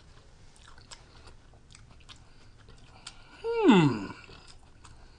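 A person chewing food with the mouth close to the microphone: soft wet clicks and crunches. About three and a half seconds in comes a short vocal sound that falls steeply in pitch.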